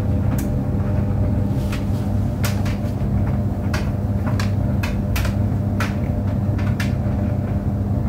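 Clothes dryer running with a steady hum and drone, with irregular light clicks and knocks every second or so as things strike the turning drum.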